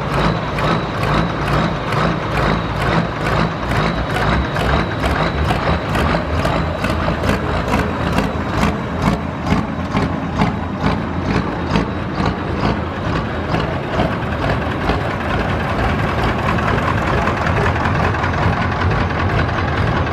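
Heavily modified tractor-pulling tractor's big diesel engine running loud and steady, with an even pulse about two or three times a second that fades after about twelve seconds.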